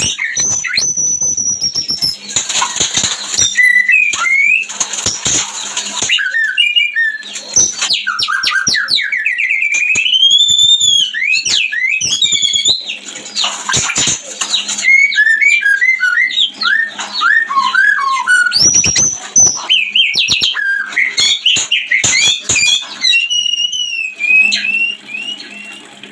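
White-rumped shama (murai batu) breeding song: a varied run of loud whistles, rising and falling glides, quick chirp series and harsh rasping notes.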